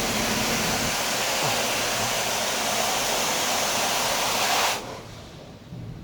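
Automatic car wash's high-pressure water jets spraying against a cargo van, heard from inside the uninsulated hollow cargo area: a really loud, steady, echoing hiss. It cuts off suddenly near the end, leaving only a low hum.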